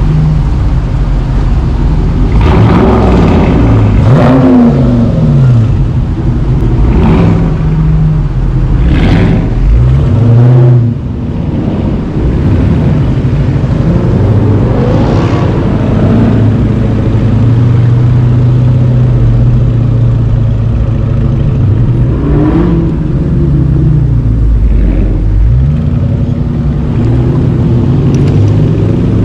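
V8 muscle-car engine revving up and dropping back again and again, with a steadier drone for a few seconds around the middle.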